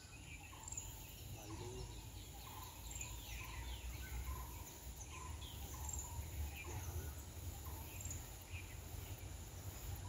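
Birds calling with short, scattered chirps over a steady low rumble.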